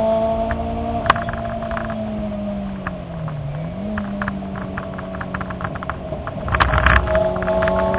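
Car engine heard from inside the cabin on track, holding a steady note that dips briefly in pitch about three seconds in and then climbs back. Interior rattles and clicks throughout, with a short burst of rough rumbling noise near the end.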